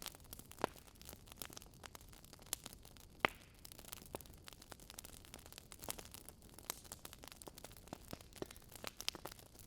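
Burning wood crackling with irregular sharp pops and snaps over a soft hiss. The loudest pop comes about three seconds in.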